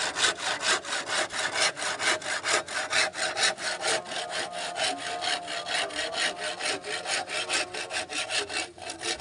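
Wood being sawn by hand in quick, even back-and-forth strokes, about five strokes a second.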